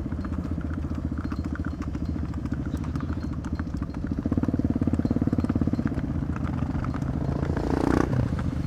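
Motorcycle engine running steadily at low speed, its exhaust pulsing evenly; the sound swells briefly near the end.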